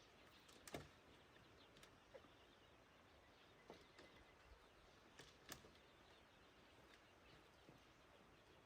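Near silence: faint outdoor background with a few faint clicks, the loudest about a second in and another about five and a half seconds in.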